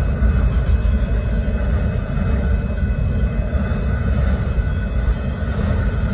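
Union Pacific freight train's autorack cars rolling past a grade crossing, a steady heavy rumble of steel wheels on rail.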